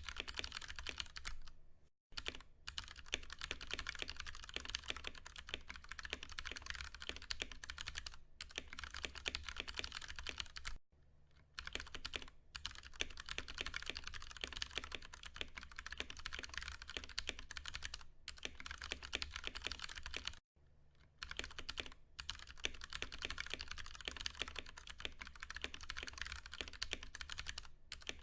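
Fast, continuous typing on a Ducky One 2 Mini mechanical keyboard with Cherry MX Brown tactile switches, a dense stream of key clacks broken by a few brief pauses.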